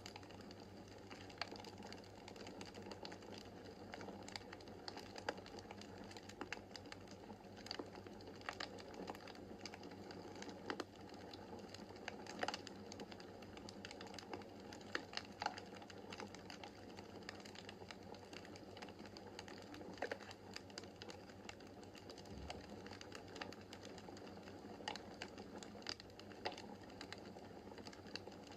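Wood fire burning in a fireplace: a soft steady hiss of flames with irregular crackles and occasional sharper pops.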